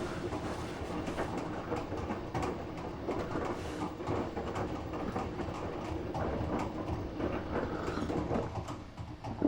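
Samsung WF9904RWE direct-drive washing machine on its main wash: the drum tumbling the load with sloshing water and many small clicks. It dies down near the end as the drum eases to a pause.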